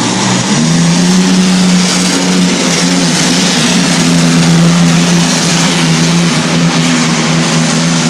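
Pulling truck's engine at full throttle as it drags a weight sled down a dirt track; the engine pitch jumps up about half a second in and holds high and steady, with loud noise over it.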